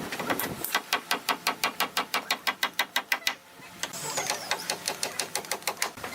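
Rapid, evenly spaced taps or clicks, about seven a second, stopping briefly in the middle and then starting again.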